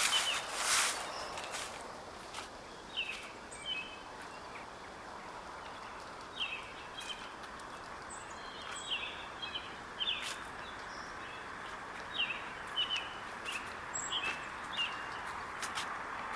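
Small songbirds giving short repeated chirps throughout, over a steady faint background hiss. Footsteps crunch on dry fallen leaves in the first second.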